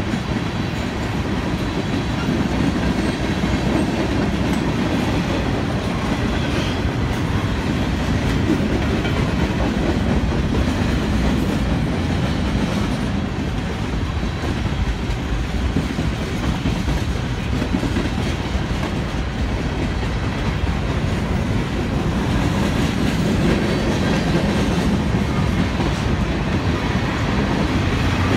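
Canadian Pacific freight cars rolling past on the rails: a steady, continuous sound of wheels on track with no let-up.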